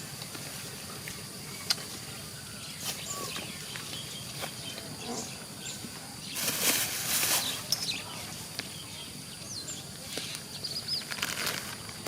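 Outdoor rural ambience with scattered sharp clicks and a few short chirps over a faint steady high tone, and a burst of rustling about six seconds in lasting just over a second.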